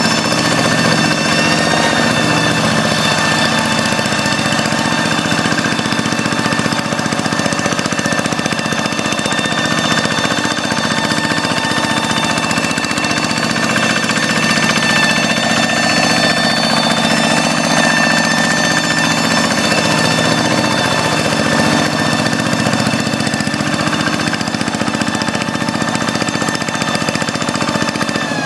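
Quick G1000 Boxer hand tractor's single-cylinder diesel engine running at a steady speed.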